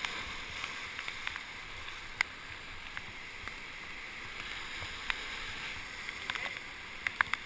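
Steady rushing of river whitewater, with sharp clicks and knocks now and then: one loud one about two seconds in and several close together near the end.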